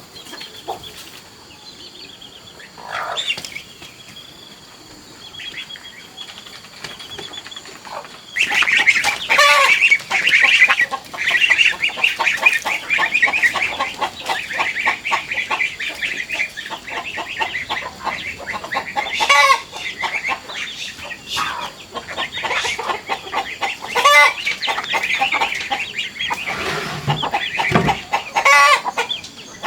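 A flock of chickens clucking and calling. After a quieter start, the dense clucking sets in suddenly and keeps going, with a few louder calls standing out above it.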